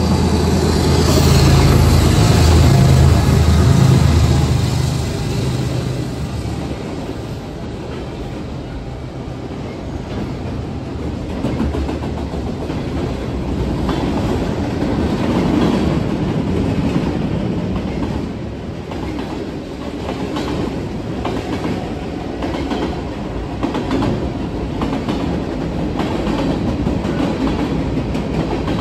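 A CSX diesel freight train passes close by. Its locomotives' engines hum steadily and are loudest in the first few seconds, then fade by about six seconds in. After that, a long string of covered hoppers and tank cars rolls past, the wheels rumbling and clicking over the rail joints.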